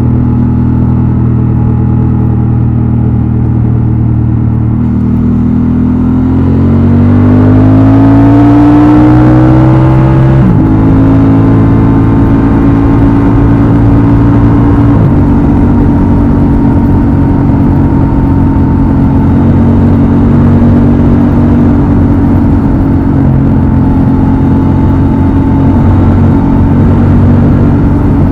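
Honda XL750 Transalp's 755 cc parallel-twin engine and exhaust on the move: running steadily, then revving up through a gear for about five seconds, dropping sharply at an upshift, shifting once more a few seconds later, then holding a steady cruise.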